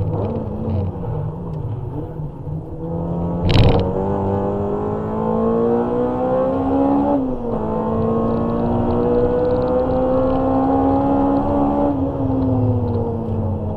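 Honda Civic EG6's engine heard from inside the cabin under track driving: low, uneven revs at first, then rising steadily in pitch under acceleration, a quick drop at an upshift about seven seconds in, rising again, then revs falling near the end. A loud sudden thump about three and a half seconds in.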